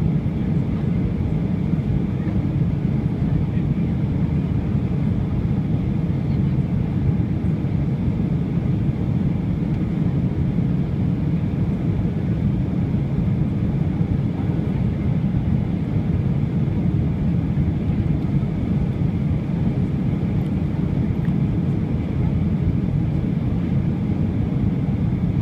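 Steady cabin noise inside a Boeing 737-800: a constant low rumble of its CFM56 jet engines and airflow, holding level without rising or falling.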